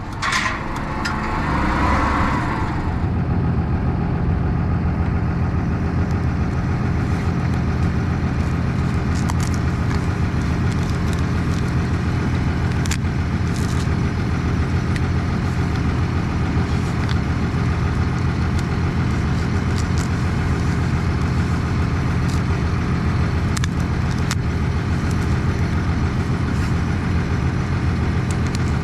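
Tractor diesel engine running steadily at constant speed, with a few faint clicks over it.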